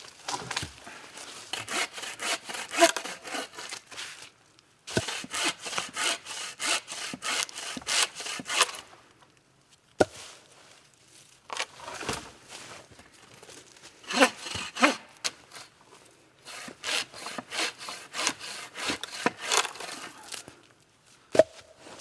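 Hand saw cutting through a bone-dry black ash log for firewood, in several bouts of quick back-and-forth strokes with short pauses between them.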